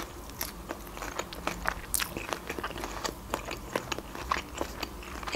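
A person chewing a mouthful of shrimp: an irregular run of small clicks and crunches, a few a second.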